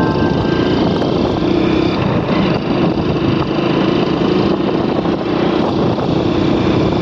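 Motorcycle running steadily while being ridden along a road.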